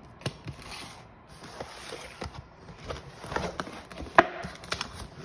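Handling noise from gear being moved by hand: scattered light clicks, taps and rustling, with one sharp click about four seconds in.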